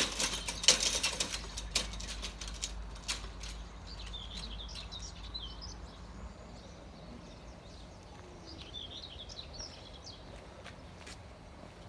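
Small birds chirping in short bursts, with a run of sharp clicks and knocks and a low rumble in the first few seconds.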